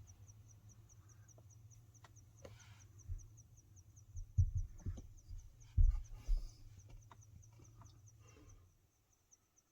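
An insect, likely a cricket, chirping steadily in short high pulses about four times a second. A few dull low thumps and knocks come through about halfway, the loudest sounds.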